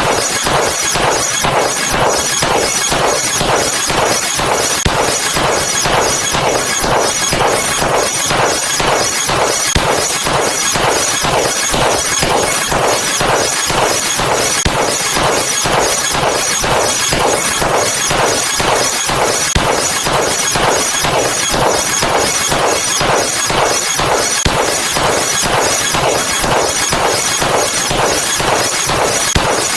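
A rapid, unbroken string of loud, noisy sound-effect hits, about three a second, each striking across the whole range like breaking glass.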